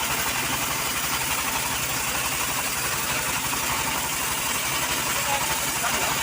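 An engine idling steadily with an even, rapid pulse, with no revving or cutting.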